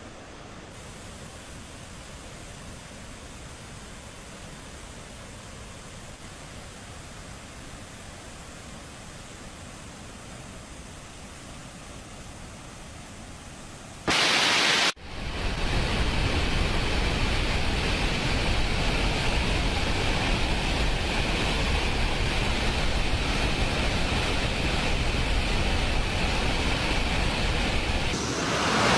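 Steady rushing of a large volume of water pouring through a dam's spillway. It is fainter at first, then after an abrupt cut about halfway through it becomes much louder and fuller.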